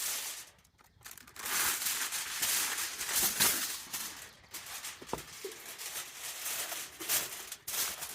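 Heavy-duty aluminum foil being pulled off the roll and handled, an irregular run of crinkling and crackling.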